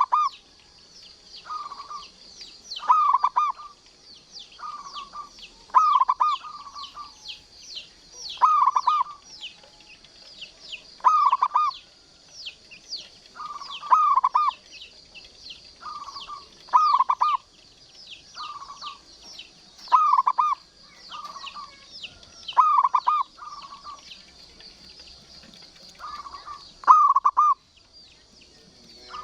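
Zebra dove (perkutut) cooing: short clusters of quick, stuttering coos repeated about every two to three seconds. Behind them runs a steady high buzz with many faint, quick high chirps.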